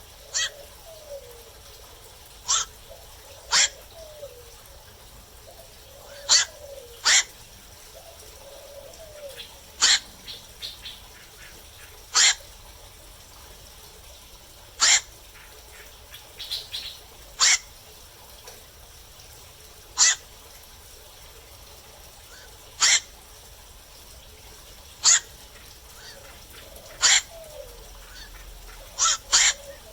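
Black-crowned night herons calling: short single calls repeating every two to three seconds, some coming in quick pairs.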